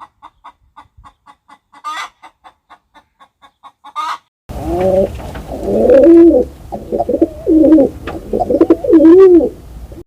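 A chicken clucking in a quick, even run of short clucks, about four a second, with a couple of louder calls. Then, after a cut about halfway through, pigeons cooing loudly in low rising-and-falling coos over a steady hiss.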